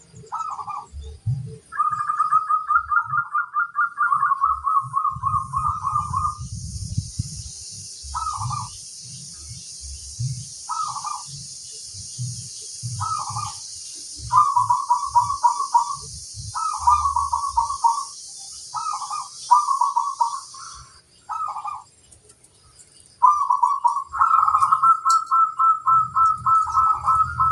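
Zebra dove (perkutut) singing: short single coos and longer rapidly trilled cooing phrases, repeated with pauses between them. A steady high hiss runs in the background for much of the middle.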